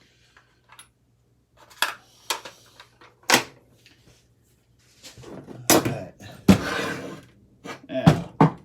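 Tools and metal ceiling-fan parts being handled on a workbench: a few separate sharp knocks, then a longer rattling clatter, then two more knocks near the end.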